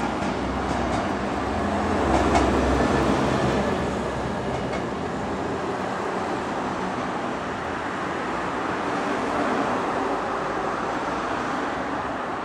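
Odakyu 60000 series 'MSE' electric train running away along the track: a few wheel clicks near the start, a swell of rumble about two seconds in, then a steadier running noise as it recedes.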